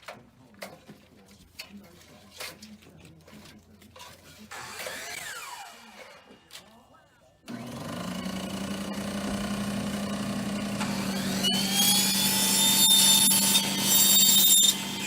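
A few faint knocks and taps, then a motor starts suddenly and runs with a steady hum. About four seconds later a high whine rises and holds, the loudest part, before dropping away near the end, typical of a power tool running up to speed.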